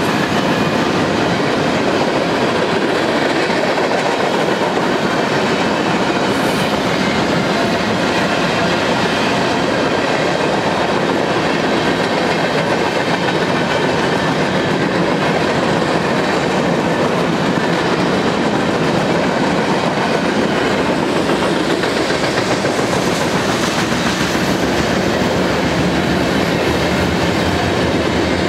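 Freight cars rolling past at track speed: steel wheels running on the rails, a steady, loud rolling noise with no let-up.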